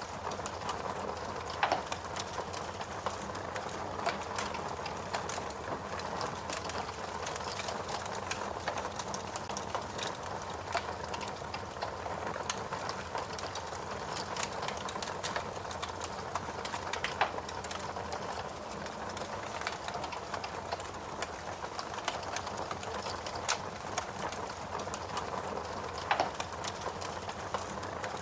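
Wood fire crackling: a steady hiss and rustle of burning, with irregular snapping clicks and a few louder pops.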